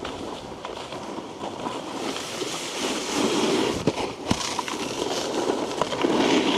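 A snowboard's base and edges scraping and chattering over hard, icy snow, swelling twice, with two sharp knocks about four seconds in.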